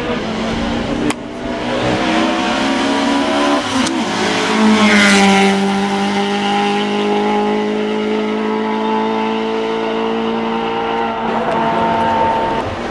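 Hill-climb race car engine at high revs as the car passes at speed, loudest about five seconds in. The note breaks twice in the first four seconds, then holds a steady high note as the car carries on up the course.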